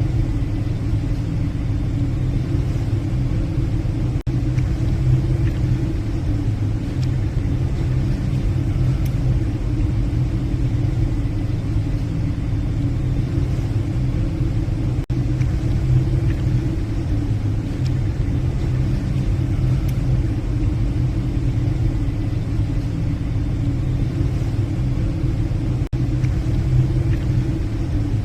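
Steady low drone of a passenger ship's engines and machinery heard on the bridge while under way, with brief drops in level about every eleven seconds.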